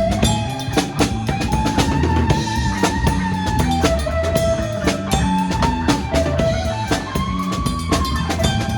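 Live rock and roll band playing an instrumental passage: a lead line of held, bending notes over a busy drum kit, with bass and rhythm guitar underneath.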